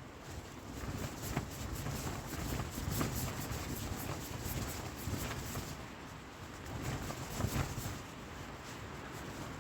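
Gusts of wind buffeting an OEX Phoxx 2 tent, with its fabric crackling and flapping over a low rumble. The gusts swell about a second in and again around seven seconds, then ease near the end.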